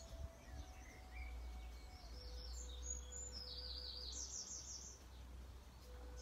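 Birds singing in the background: a run of high, quickly repeated chirps and trills in the middle, and a short chirp near the end, over a faint steady low rumble.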